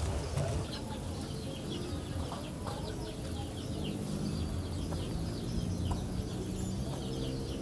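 Outdoor ambience of many short bird chirps and chicken clucking over a low, steady rumble.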